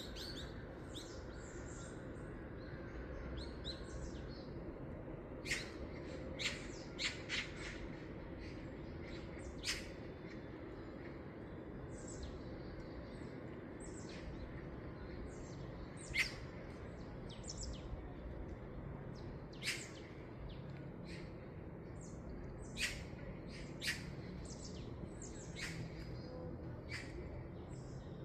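Birds calling outdoors: many short, sharp chirps and squawks at irregular intervals throughout, some in quick runs of two or three, over a steady low background rumble.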